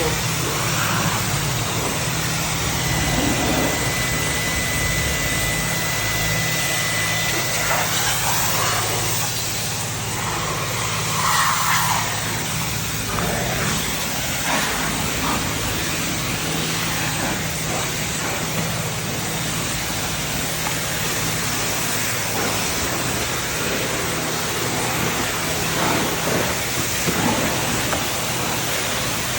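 Self-serve car wash spray wand hissing steadily as it sprays water, over a steady low hum from the pump. A thin high tone sounds for about five seconds near the start.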